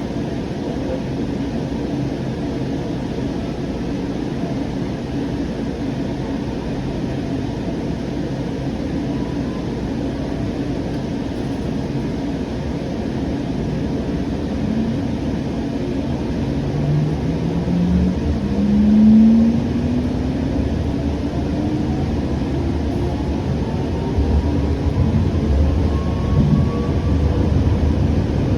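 Siemens S700 light rail car running, heard from on board: a steady low rumble of wheels and running gear. In the second half a pitched whine glides upward, and the low rumble grows louder toward the end.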